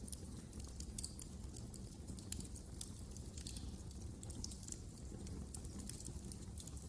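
Wood fire crackling in a fireplace: irregular small pops and crackles over a low, steady rumble of the flames.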